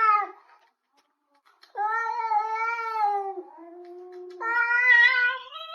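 A domestic cat yowling in long, drawn-out meows: one call dies away just after the start, then after a pause of about a second and a half come a long call, a quieter lower held tone, and a loud call that is still going at the end.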